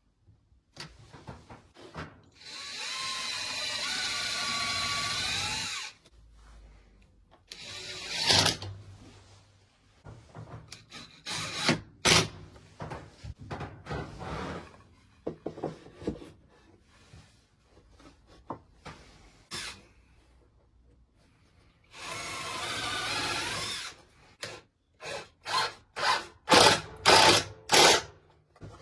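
Power drill running in two steady bursts of about three and two seconds, with a whine that wavers slightly. Between them come scattered knocks and clatter of wood and tools being handled, and near the end a quick run of sharp knocks.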